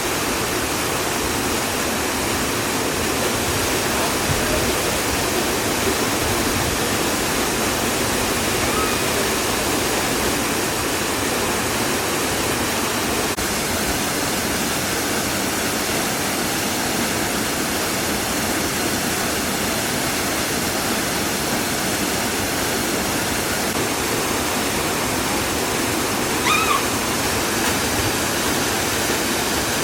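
Steady, unbroken rush of a waterfall pouring into its basin.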